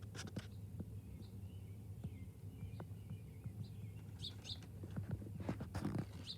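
Small birds at a feeder: a few short high chirps and a faint wavering call, with scattered sharp taps and clicks over a low steady hum.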